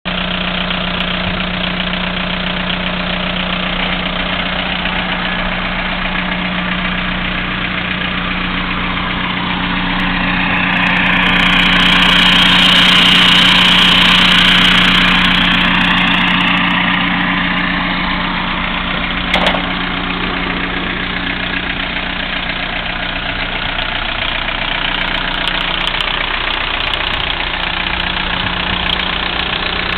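VW Bora with a straight-through exhaust idling at a steady pitch. From about ten seconds in, a louder hissing swell rises over it, peaks and fades by about seventeen seconds. A short click comes a little before twenty seconds in.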